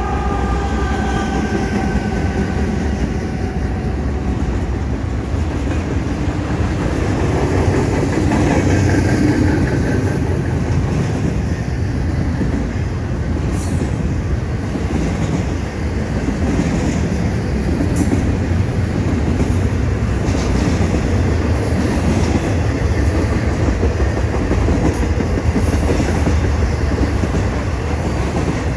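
Long intermodal freight train rolling past: the pitched engine tones of its trailing diesel locomotives fall away in the first few seconds, then a steady heavy rumble of double-stack container cars and trailer flatcars, with occasional sharp wheel clicks.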